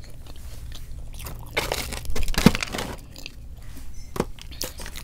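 Close-miked mouth sounds of a person chewing and biting food, with a denser run of bites about one and a half to three seconds in and a few sharp clicks.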